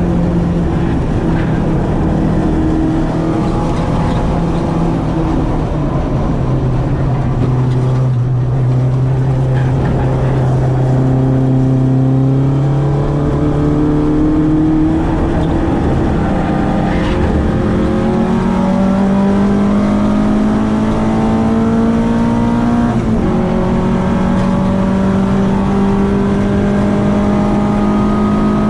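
Citroen AX's 8-valve four-cylinder engine on twin Weber 40 carburettors running hard at track pace. Its pitch drops and holds lower for several seconds about a third of the way in, then climbs slowly and steadily through the rest.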